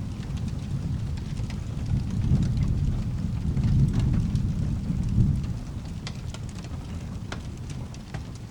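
Low rolling thunder that swells a couple of seconds in and dies down after about five seconds, over steady rain with scattered sharp pops.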